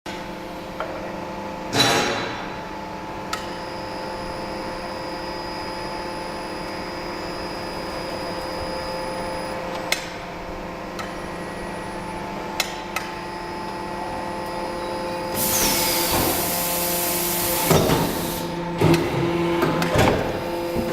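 Rotor aluminium die-casting machine running: a steady hum with several fixed tones, broken by occasional sharp metallic clanks and knocks. Past the middle comes a burst of hissing lasting about three seconds, followed by a run of clanks.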